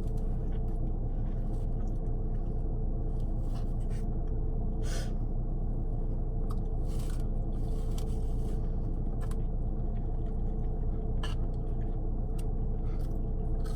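Eating noises: scattered brief scrapes and rustles of utensils and takeout containers, over a steady low hum.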